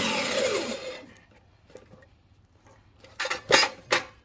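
Corded electric wood-cutting saw being switched off, its motor winding down with a falling whine over about a second. About three seconds in come three short knocks, wood or the saw being handled.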